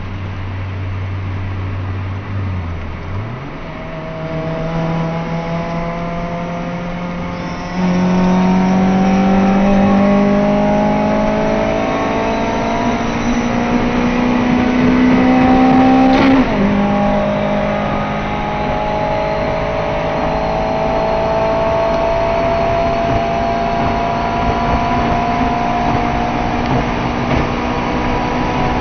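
Honda four-cylinder engine heard from inside the car's cabin, accelerating hard from a steady low note: the pitch climbs steadily and the engine gets louder about 8 seconds in. About 16 seconds in the note drops sharply at a gear change, then climbs slowly again under full throttle.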